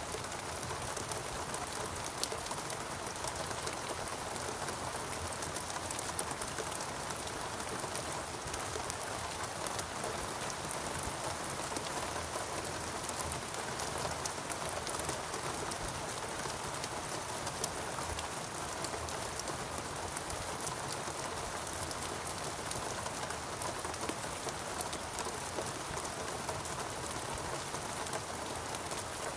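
Steady rain falling in a rainforest, a dense even patter of many drops hitting leaves and surfaces, with no let-up.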